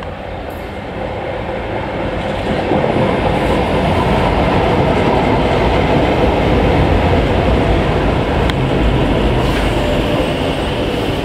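Tyne & Wear Metro train approaching and running past close by along the platform, its wheels and running gear rumbling on the rails. The noise grows louder over the first three seconds and then holds steady.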